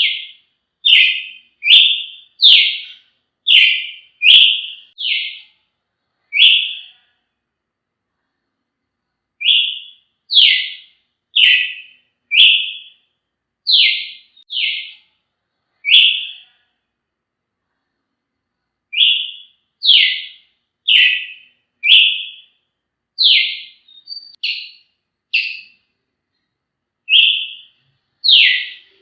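Brazilian tanager (tiê-sangue) calling: sharp, short notes that drop in pitch, repeated a couple of times a second in runs broken by pauses of two or three seconds.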